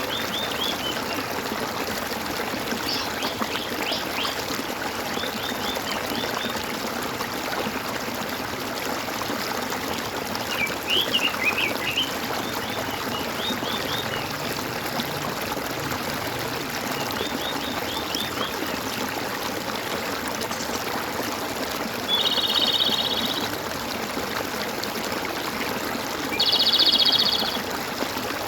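Stream of water gurgling steadily, with birds chirping in short scattered series of calls. Near the end, a louder buzzy trill sounds twice, each lasting about a second.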